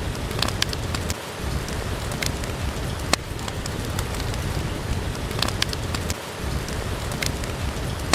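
Steady rainfall, with a wood fire crackling and now and then giving a sharp pop.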